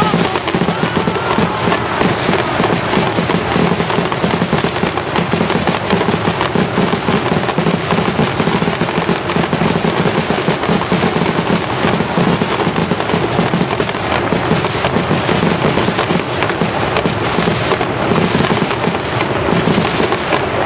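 Fireworks display going off in a dense, continuous crackle of many small pops and bangs, with no pause.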